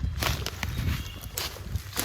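Hurried footsteps crunching over the ground, with a heavy low rumble of movement on the microphone.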